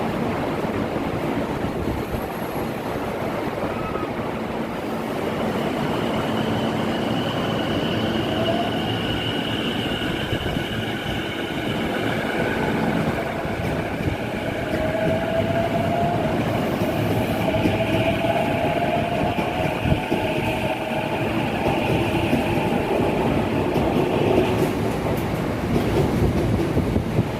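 Electric commuter train on the Chuo Line moving along a station platform: a steady rumble of wheels on rail, with a motor whine that slowly rises in pitch. Wind buffets the microphone.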